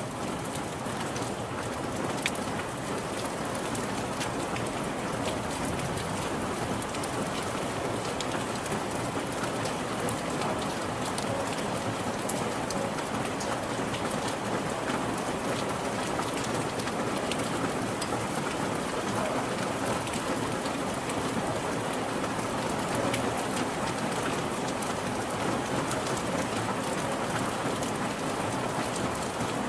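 Steady rain falling, an even hiss with many small drops pattering on a surface, no thunder.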